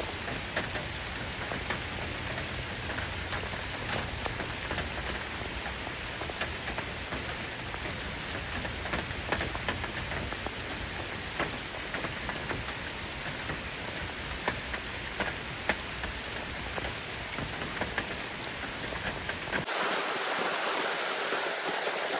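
Steady rain falling, an even hiss with many separate sharp drop hits and a low rumble underneath. About twenty seconds in the sound changes abruptly: the low rumble drops away and a brighter, rushing hiss takes over.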